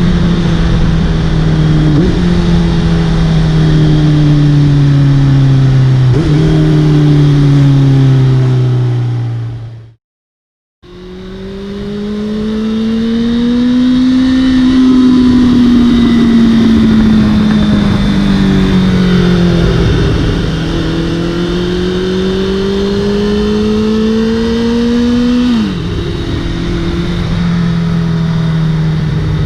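Honda CBR650F inline-four motorcycle engine through an Arrow full-system exhaust, heard on the move. In the first part the revs fall as the bike slows, with two quick jumps up in pitch like blipped downshifts. After a brief cut to silence, the revs rise and fall and rise again, then drop sharply near the end as it shifts up.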